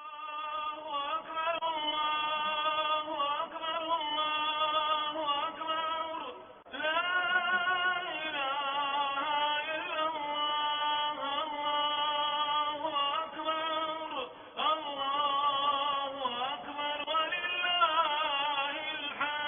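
Music: a solo voice singing a melody in long, wavering held notes, with no percussion.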